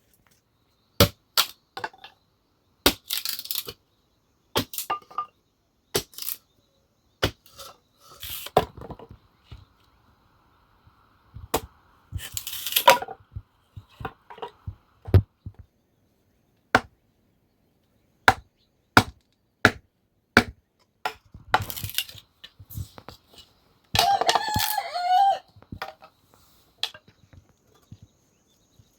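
Sharp, irregular knocks or strikes, roughly one a second. A rooster crows once, for about a second and a half, about three-quarters of the way through.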